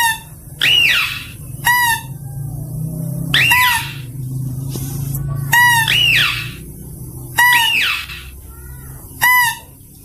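Lure recording of mouse-deer (kancil) calls: sharp, high squeals repeating about once a second, alternating between an arching call that rises and falls and a short clipped call, over a steady low hum.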